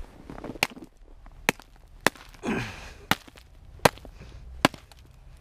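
Hammer striking a roof ice dam, about seven sharp blows at a steady pace of a little over one a second, with a short rushing scrape between two of them.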